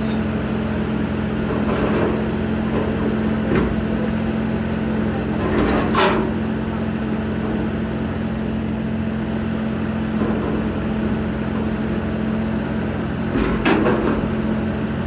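A motor runs steadily at a constant pitch, with three sharp knocks of tools or metal, the loudest about six seconds in.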